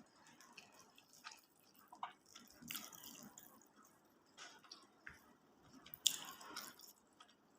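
Quiet, wet chewing and mouth clicks of someone eating nasi Padang, with a couple of brief louder smacking bursts about three and six seconds in.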